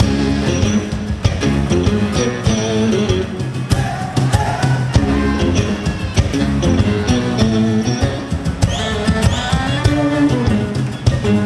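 Live rock band playing an instrumental passage with guitar and drums, between sung lines.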